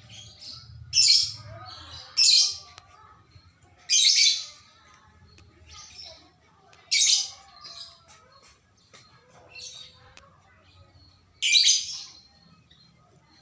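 A bird giving short, sharp, high chirps: five loud ones spaced a second to several seconds apart, with softer calls in between.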